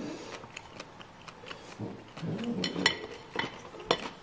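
Close-miked chewing of food, with many small mouth clicks and crunches, and a short closed-mouth hummed "mmm" around two seconds in.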